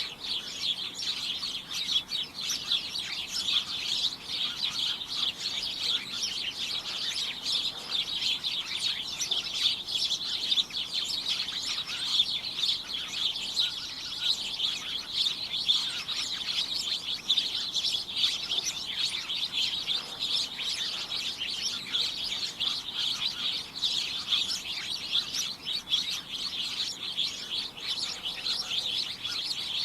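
A flock of small birds chirping continuously all at once, a cacophonous, unbroken tangle of short high-pitched notes.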